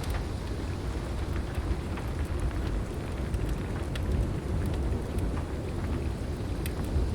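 Heavy rain falling steadily under a continuous low rumble of thunder, with scattered sharp crackles and pops from a wood fire in a fireplace.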